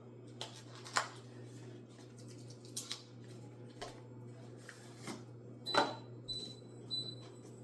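Scattered kitchen clicks and knocks, the loudest just before the beeps. About six seconds in, a countertop air fryer oven beeps three short high beeps, signalling that it has finished preheating.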